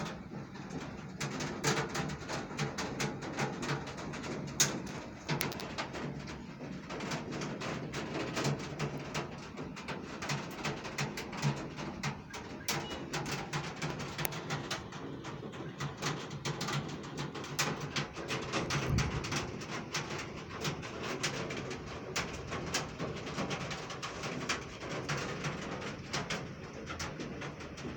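Heavy rain, its drops striking a hard surface in a dense, irregular stream of sharp clicks over a steady hiss.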